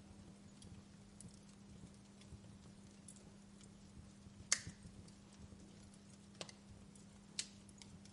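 Wood fire crackling: sparse pops and snaps, the loudest about four and a half seconds in, over a faint low steady hum.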